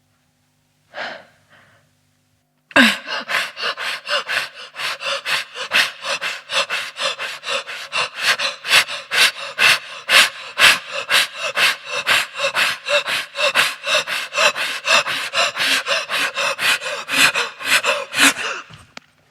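A person breathing in rapid, rhythmic gasps, about three a second, for some fifteen seconds, after a single short breath near the start.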